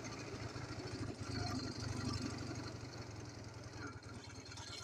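Ural motorcycle's flat-twin engine running steadily, just after a major overhaul.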